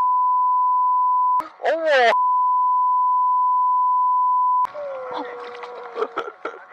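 A steady 1 kHz bleep tone, the kind dubbed over speech to censor it, held for over a second. It breaks for half a second of voice, then holds again for about two and a half seconds. After that come voices with a few clicks.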